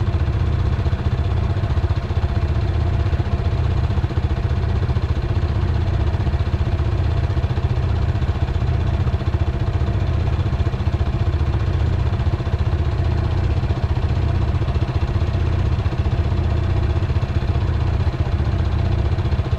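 Dirt bike engine running steadily at an even pitch, with a heavy low rumble and no revving.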